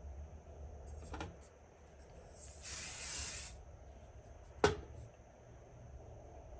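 Aerosol dry volume spray (Living Proof Full Dry Volume Blast) hissing in one burst of about a second, sprayed into the hair. About two seconds later there is a single sharp click or knock, the loudest sound here.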